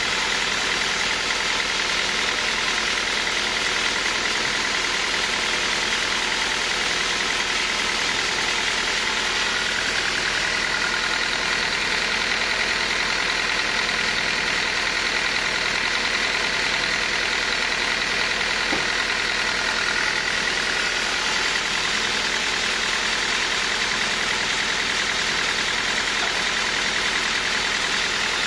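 Sawmill machinery running with a steady drone, a faint higher whine coming in and fading out midway.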